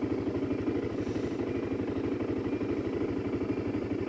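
Motorcycle engine idling steadily, with an even, rapid low exhaust pulse.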